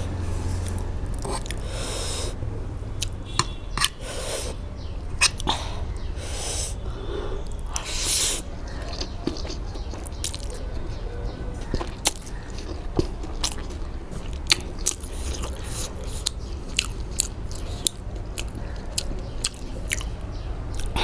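Close-miked eating: chewing and slurping of spicy instant noodles and fried chicken, with frequent sharp mouth clicks and smacks.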